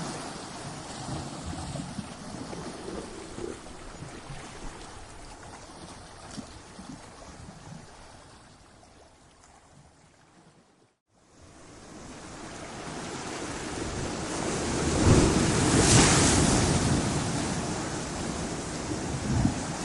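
Ocean waves breaking against rocks. The wash of surf fades away over about ten seconds and drops briefly to silence. Then a new wave builds and crashes, loudest about fifteen seconds in, before easing off.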